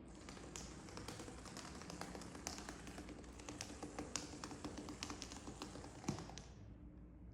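Wloom Power Ball, a motorized cat toy ball, rolling and knocking on a hard floor: a quick irregular patter of taps and clicks that stops near the end, with a faint steady motor hum in the middle.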